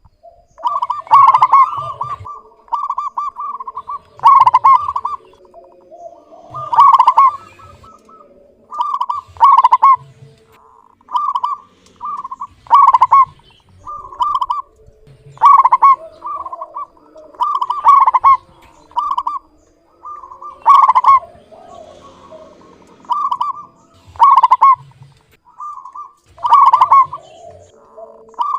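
Zebra dove (perkutut) cooing: clear phrases of several short notes, repeated about every two to three seconds.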